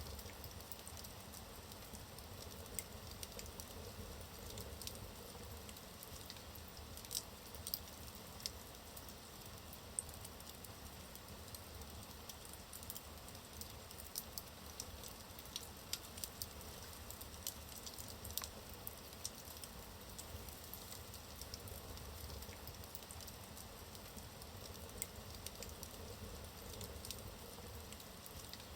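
Wood fire burning in a fireplace: a soft steady hiss and low rumble of the flames, with logs crackling and popping in sharp, irregular snaps.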